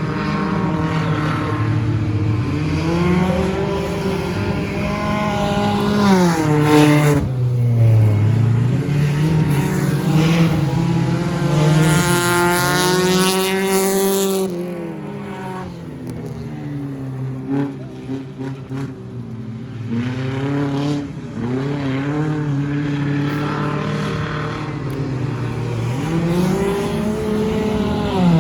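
Stock car engines racing, their pitch rising and falling again and again as the cars accelerate, lift and pass, with one louder, higher-pitched pass about halfway through.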